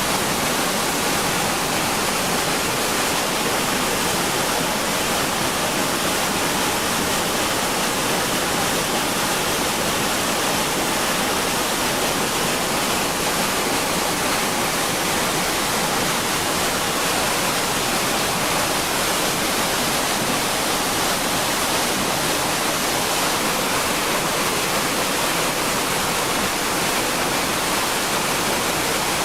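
Steady loud rush of floodwater torrent pouring along, an even roar of water with no breaks.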